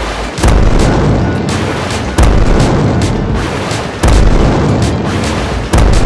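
Four heavy booms about every 1.8 seconds, each hitting suddenly and fading slowly, over background music.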